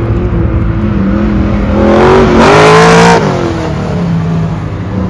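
Autocross car's engine accelerating hard, its pitch climbing to a loud peak about two to three seconds in with a rushing hiss, then dropping as the car eases off or moves away.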